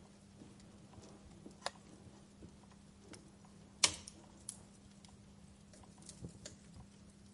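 Wood fire crackling: scattered small pops and ticks, with one sharp, loud pop about four seconds in.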